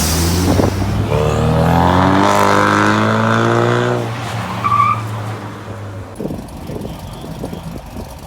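A car engine revving hard as it pulls away, its pitch climbing steadily for about three seconds before it drops off and fades. A short high squeak comes about halfway through.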